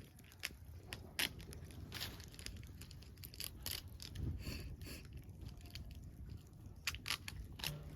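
Wood campfire crackling: irregular sharp pops and snaps over a low rumble.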